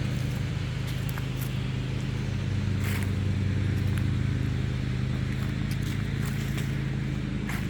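Lawn mower engine running with a steady, even drone, with a few footsteps on storm debris.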